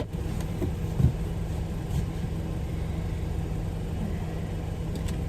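Car engine idling: a steady low rumble with a short knock about a second in.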